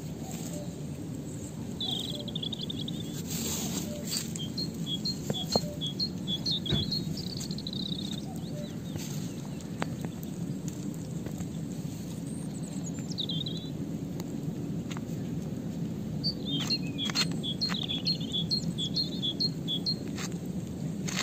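A small songbird singing two runs of quick, repeated high chirps, one about two seconds in and one about sixteen seconds in. A steady low hum and a few soft clicks run underneath.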